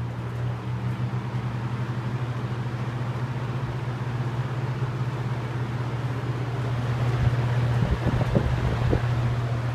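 20-inch plastic-bladed box fan running on medium speed: a steady motor hum under a rush of air, loudness creeping up slightly, with a few low thumps near the end.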